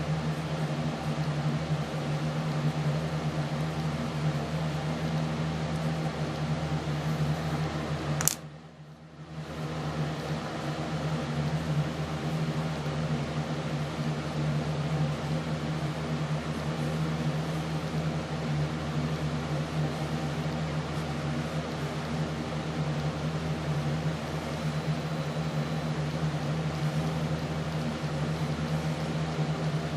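Steady mechanical hum, like a fan or motor running. About eight seconds in there is a sharp click, and the hum briefly drops away before it comes back.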